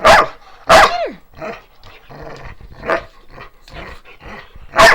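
Two dogs play-fighting: loud, sharp barks, two close together at the start with the second sliding down in pitch, another about three seconds in and one at the end, with growling between.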